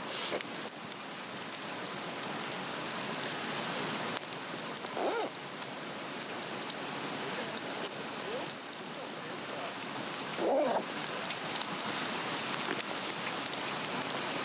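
Swedish torch log fire burning with a steady hiss and constant fine crackling. Two short voice-like sounds stand out, about five seconds in and again near the ten-second mark.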